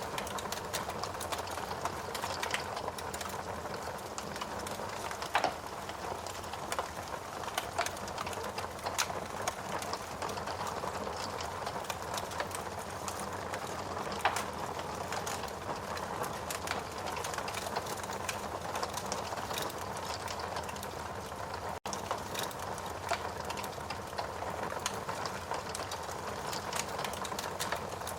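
Wood fire burning in a fireplace: a steady crackle of burning logs with frequent small snaps and a couple of louder pops, about five and fourteen seconds in.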